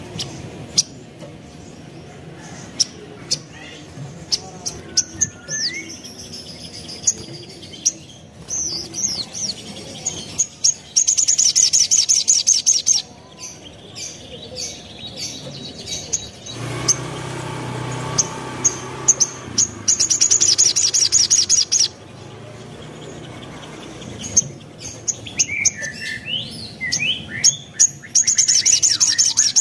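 Little spiderhunter (sogok ontong) calling: scattered sharp high chirps and clicks, broken by three loud bursts of fast, high trilling, each about two seconds long and coming roughly every eight seconds.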